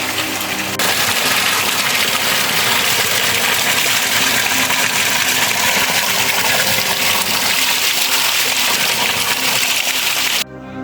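Heavy rain pouring down in a steady, dense hiss. It gets louder about a second in and stops abruptly near the end.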